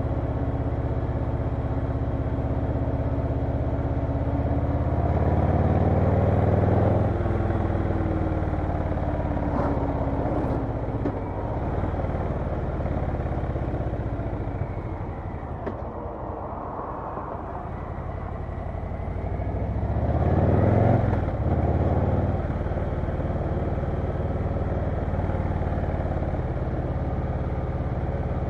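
Harley-Davidson Low Rider S V-twin engine running on a ride. It revs up about five seconds in and again around twenty seconds in, eases off between the two, and settles to a steady run near the end.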